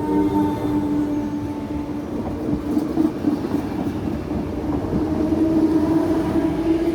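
RER C electric multiple-unit train running, with a steady motor whine over the rumble of the train. A higher whine comes in and rises in pitch near the end as the train speeds up.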